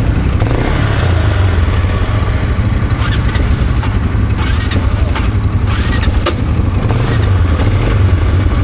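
Quad bike engine running steadily as the bike rides along, with a few short knocks about halfway through.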